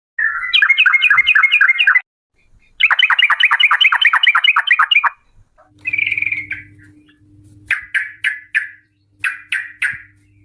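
Yellow-vented bulbul (trucuk) singing: two fast rattling runs of sharp chirps, the second longer, then a single call and slower spaced chirps in groups near the end.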